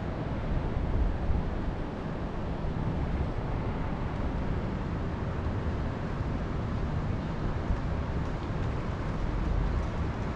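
Wind blowing, a steady rushing noise with a rumble of wind buffeting the microphone.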